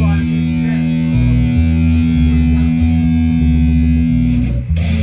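Live band's amplified electric guitar and bass: a chord held over shifting bass notes, cutting off about four and a half seconds in, then looser playing.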